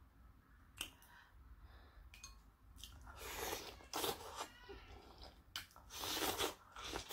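Close-miked chewing and biting of corn on the cob: wet mouth clicks and smacks, sparse at first, then busier from about three seconds in.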